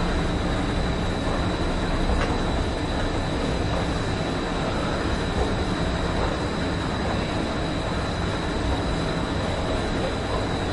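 Escalator machinery running steadily: a continuous mechanical rumble with a thin, constant high-pitched whine over it.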